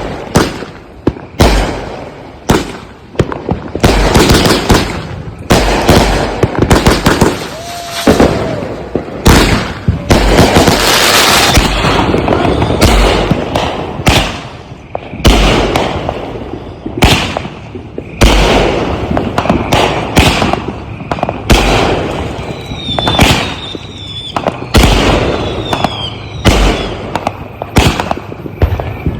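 Consumer multi-shot aerial firework cakes firing a rapid run of booming shots, several a second at times. About ten seconds in, a stretch of crackling, and near the end a few short falling whistles among the bangs.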